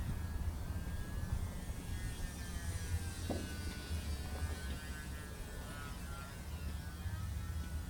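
Electric radio-controlled model aircraft in flight, its motor a distant whine that wavers up and down in pitch, over a steady low rumble.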